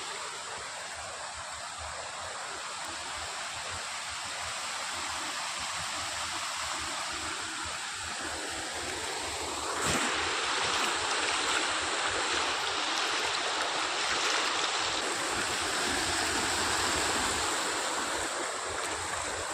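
Heavy rain pouring down, a dense steady hiss that grows louder and fuller about halfway through.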